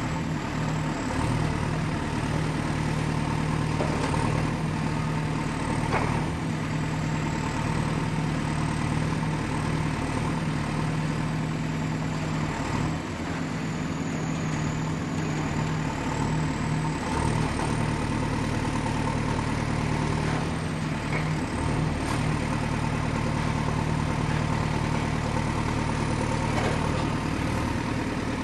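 Excavator's diesel engine running steadily at a low, even hum, with a thin high whine drifting slightly in pitch over it. A few light knocks come through now and then.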